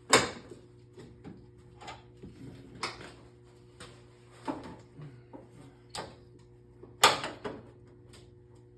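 Scattered sharp knocks and clanks of tools and parts being handled, the loudest right at the start and about seven seconds in, over a steady low hum.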